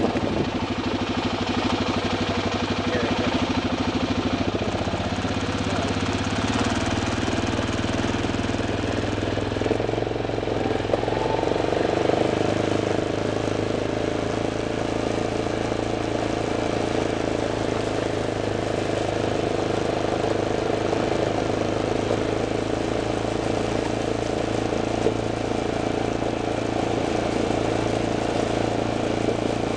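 Vehicle engine running steadily on the move, its note shifting about six seconds in and again around eleven seconds.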